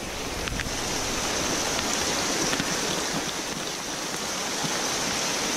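Steady hiss of rain and running water, picked up by a GoPro's built-in microphone, with a couple of faint clicks about half a second in.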